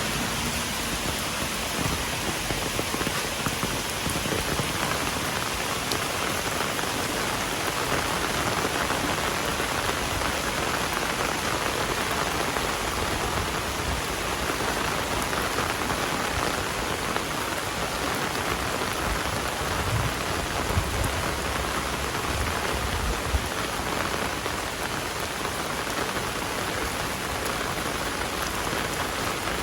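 Heavy rain falling steadily, a dense even hiss of drops on surfaces. A couple of brief knocks stand out about two-thirds of the way through.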